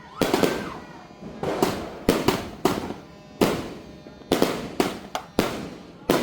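Leegendary Orbit Jet 2.0 multi-shot fireworks cake firing: sharp reports about two a second at an uneven pace. There is a short whistling tone near the start.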